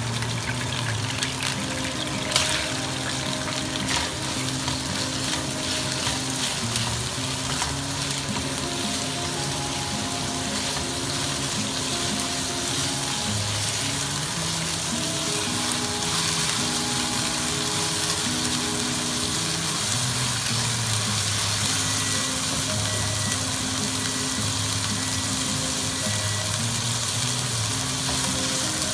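Pork pieces sizzling in hot oil in a wok as they are stir-fried with a spatula, with a sharp knock of the spatula on the wok about two seconds in. The sizzle grows louder about halfway through, as scallion, ginger and dried chilies go into the oil.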